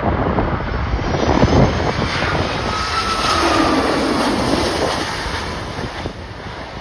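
Jet airliner passing low, its engine noise swelling and then fading with a tone sliding down in pitch as it goes by, over strong wind buffeting the microphone.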